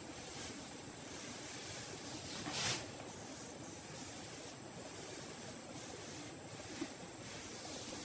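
Steady outdoor background hiss, with one brief swish about two and a half seconds in and a faint click near the end.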